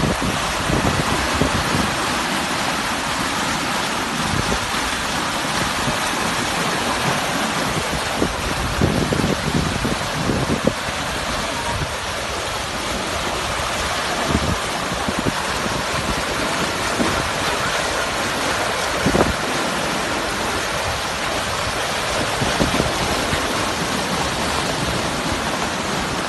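A creek running high after an hour of rain, its water rushing steadily, with a few brief low bumps.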